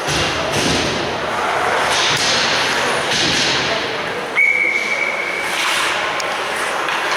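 Referee's whistle blown once, a single steady high tone lasting just over a second, starting about four seconds in. Around it is the steady noise of ice hockey play in the rink, with several thuds.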